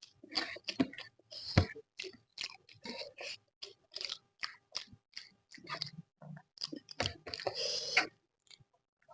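Close-miked chewing of a mouthful of food, with wet mouth smacks and clicks in quick, irregular strokes, and a longer wet stretch near the end.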